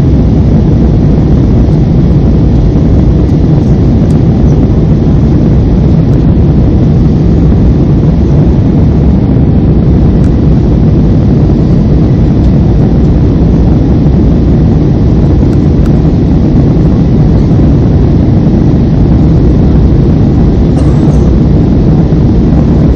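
Jet airliner's engine and airflow noise heard inside the passenger cabin: a loud, steady, low rumble that holds even throughout.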